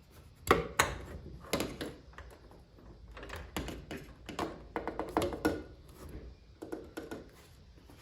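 Irregular knocks and clicks of mirror-mounting hardware being handled and pushed into place on a pickup truck's steel door, the sharpest two close together near the start, then scattered taps and clatters.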